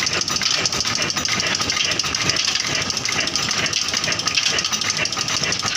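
Old stationary well-pump engine running steadily with a fast, even knocking beat.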